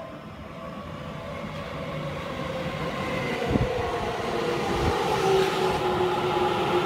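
Seibu 30000 series electric commuter train pulling in alongside the platform, growing steadily louder as it nears and passes. Its traction motors whine over the rumble of the wheels, with two low thuds about three and a half and five seconds in.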